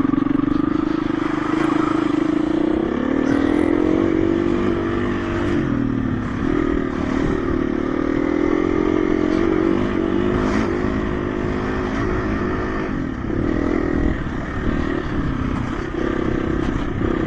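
KTM 350 EXC-F dirt bike's single-cylinder four-stroke engine running along a trail, its revs rising and falling with the throttle.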